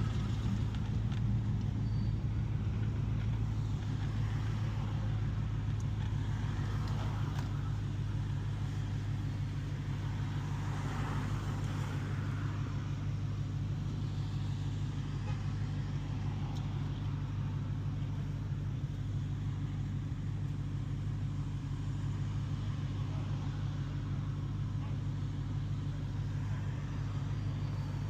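2015 Dodge Challenger Hellcat's supercharged 6.2-litre HEMI V8 running with a steady drone, holding one engine speed throughout.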